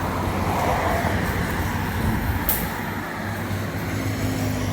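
Steady road-traffic noise with a low engine hum from passing vehicles, and a single sharp click about halfway through.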